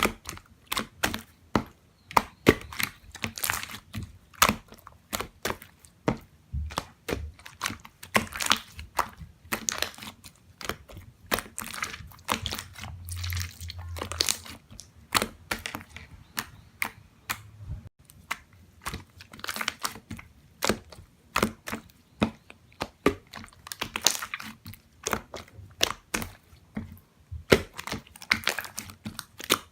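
Slime being squeezed, stretched and pressed by hand, making a dense, irregular run of clicks and pops.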